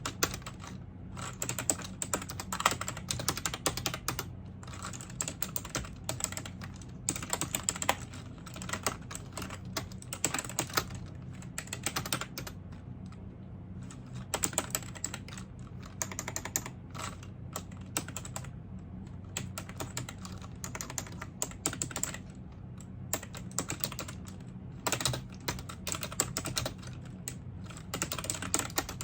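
Computer keyboard typing: fast runs of key clicks broken by short pauses every few seconds, over a steady low hum.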